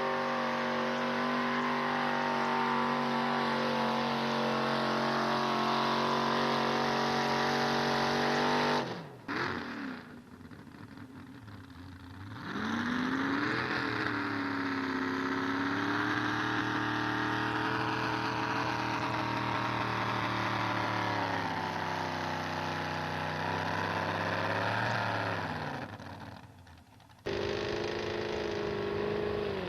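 Pulling truck's engine held at high revs under load, then cut off abruptly about nine seconds in. After a short lull another engine revs up and holds high revs with a wavering pitch, drops away near the end, and a loud engine sound cuts back in suddenly.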